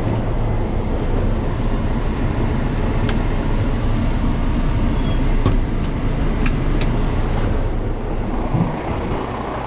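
Tow truck's diesel engine running steadily with its PTO engaged, driving the hydraulic pump for the winch and boom, with a few sharp metal clicks.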